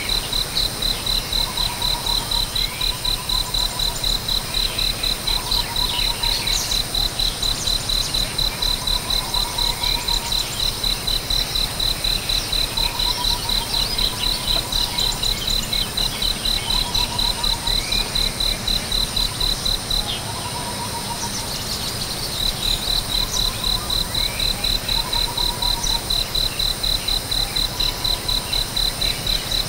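An insect, cricket-like, chirping in a steady rapid pulsing high tone that breaks off for about two seconds around the middle, with a bird's short low trilled note repeating every two to three seconds.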